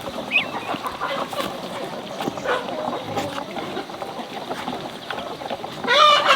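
Chickens clucking, with a louder drawn-out call near the end.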